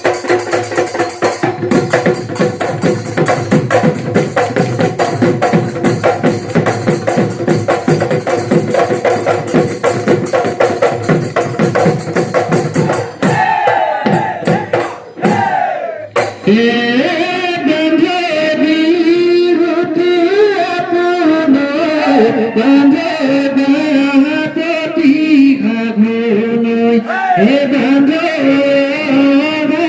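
Husori troupe performing Bihu music: fast, dense dhol drumming with steady held notes, then group singing joins over the drums from about 16 seconds in.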